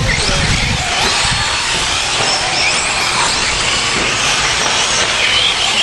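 Radio-controlled 4WD short course trucks racing, their electric motors giving high-pitched whines that rise and fall with the throttle over a steady noisy background.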